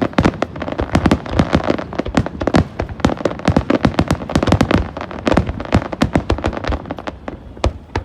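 A fast barrage of aerial firework shells bursting, several loud reports a second overlapping with crackle and echo.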